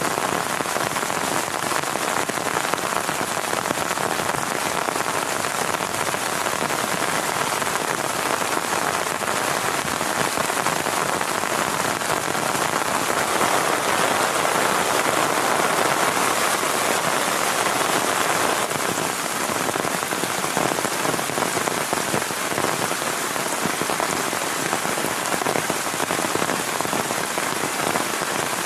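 Heavy rain falling steadily, a little louder for several seconds around the middle.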